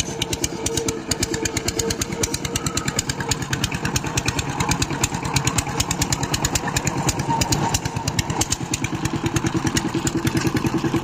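Power tiller's single-cylinder diesel engine running steadily with an even, rapid chugging beat.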